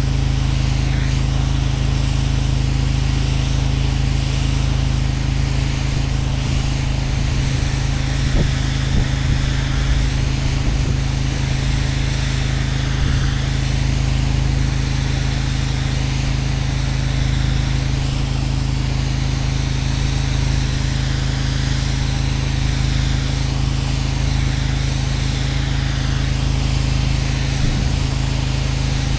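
Gas-engine pressure washer running steadily, with the hiss of its water jet rinsing a concrete driveway, the spray swelling and fading as the wand sweeps.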